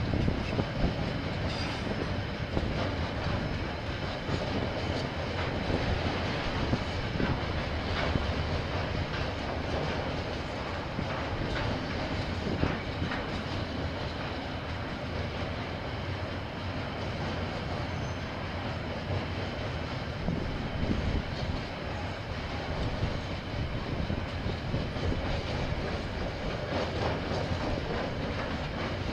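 Freight train wagons rolling past on the rails: a steady rumble of wheels with occasional short clicks and knocks.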